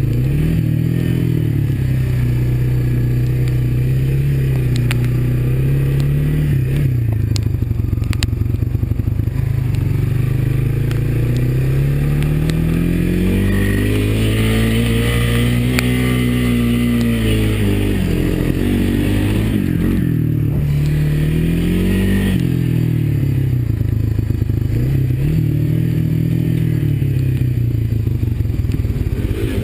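Honda ATV engine running under way, its pitch rising and falling with the throttle: a long climb to its highest revs about halfway through, then easing off, with shorter surges before and after.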